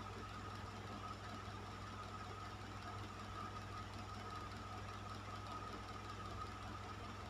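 Electric fan running steadily: a constant low motor hum with a thin steady whine above it and the even hiss of moving air.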